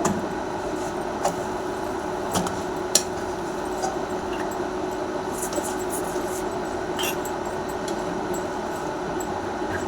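Steady kitchen hum and hiss with a faint held tone, broken by a few light clinks of utensils while cooking.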